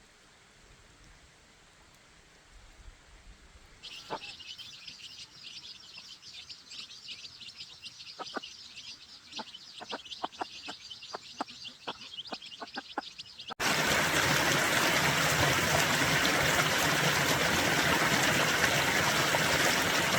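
Birds chirping rapidly and continuously, with a few sharp clicks, then a sudden loud, steady rushing noise that starts and cuts off abruptly.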